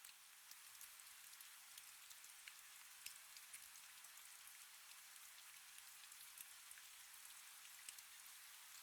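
Faint, steady rain, a soft hiss with scattered individual drops ticking through it.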